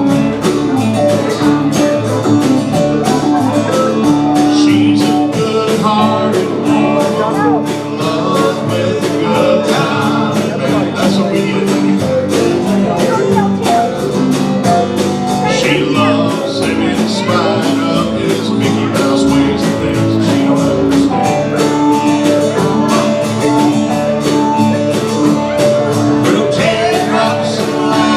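Live country-rock band playing a song: electric guitars, bass and drums keeping a steady beat, with a sung vocal line.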